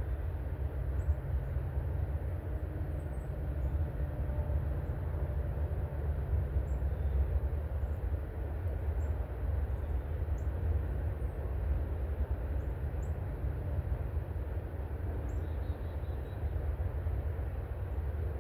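A steady low rumble throughout, with faint, short, high bird chirps every second or two.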